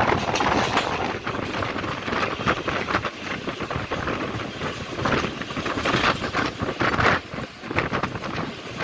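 Passenger train running on the track, its wheels knocking and clattering irregularly over the rail joints amid steady running noise.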